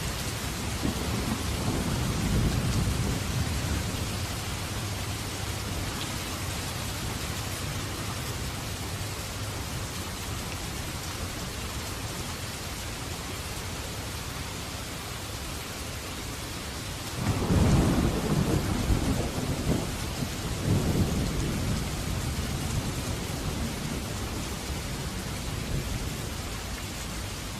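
Steady heavy rain, with thunder rumbling low early on and a sudden louder thunderclap more than halfway through that surges again a few seconds later before rolling away.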